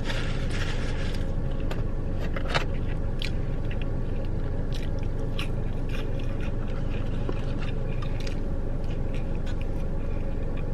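Close-up chewing and crunching of fried fast food, with many small sharp mouth clicks, over a steady low hum. A denser crunch comes in the first second.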